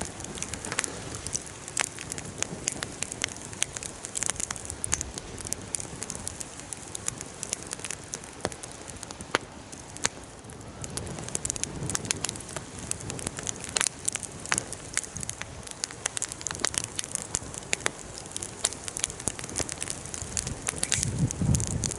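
A bonfire burning and crackling, with frequent sharp pops over a steady hiss. A low rumble swells near the end.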